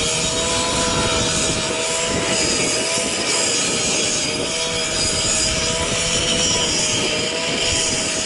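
Firefighters' powered circular rescue saw running at a steady high speed, cutting through a burning car's hood to reach the engine. The engine's pitch wavers slightly under the loud hiss of the blade in metal.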